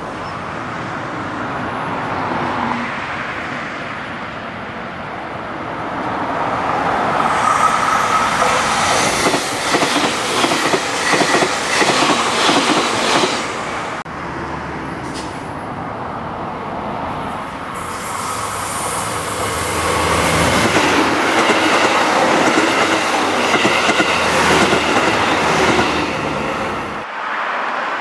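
JR Kyushu 885 series electric limited express passing, its wheels clattering over the rail joints and squealing, loudest about a third of the way in. After a break about halfway, a second train passes with the same clatter and rumble, fading near the end.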